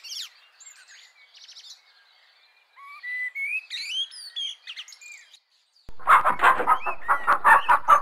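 Small birds chirping in short rising and falling whistles. About six seconds in, a louder run of rapid choppy calls starts.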